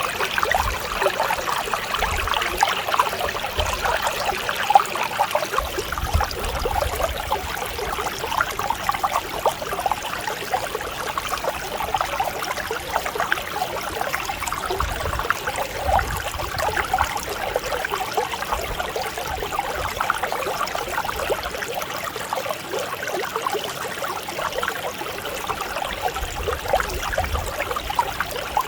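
Mountain stream flowing over rocks: a steady, gentle babble of many small splashes and trickles, with now and then a low rumble.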